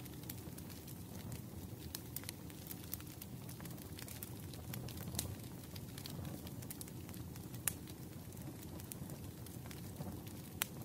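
Wood fire crackling: scattered sharp pops over a low, steady rumble of burning, with the loudest pops about halfway through and near the end.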